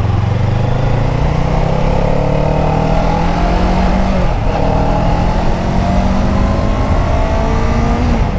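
Kawasaki Ninja 500's parallel-twin engine accelerating hard, its pitch climbing steadily, dropping at an upshift about four seconds in, then climbing again to another shift near the end.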